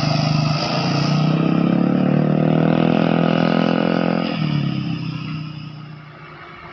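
A vehicle engine running loud and steady as it passes close. Its low note breaks off about four and a half seconds in, and the sound then fades away.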